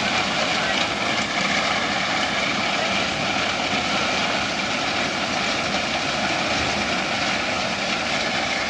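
Freight train passing close by: a loud, steady rolling noise of the wagons on the track, with a few steady tones over it.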